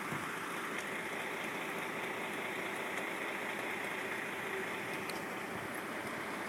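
Steady hum of vehicle noise: an engine running with no clear changes or impacts.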